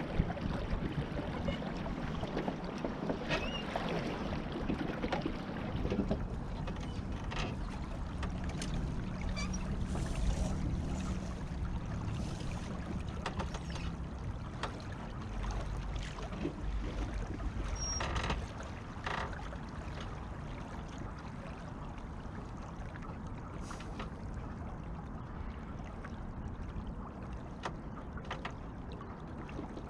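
Beneteau First 20 sailboat under way: a steady rush of water and wind noise, heavier in the first half, with occasional light knocks.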